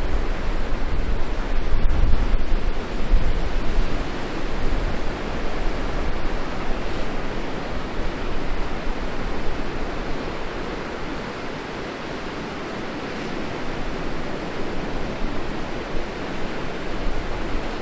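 Wind buffeting the microphone over a steady outdoor rush of noise. The buffeting is heaviest in the first four seconds, then eases.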